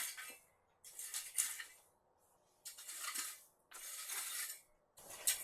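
Plastic weed-control mat rustling and crinkling as it is handled and spread, in five short bursts with brief pauses between them.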